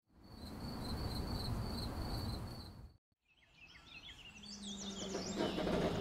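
Sound-effect ambience: crickets chirping over a low noise bed, cutting off about three seconds in. Then birds chirping and singing, with a low engine hum fading in near the end, the school bus approaching.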